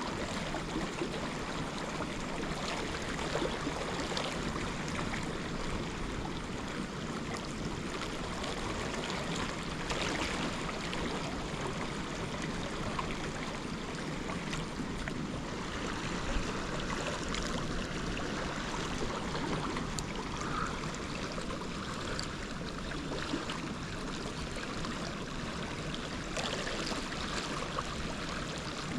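Steady rush of flowing river water, with a single faint tap about sixteen seconds in.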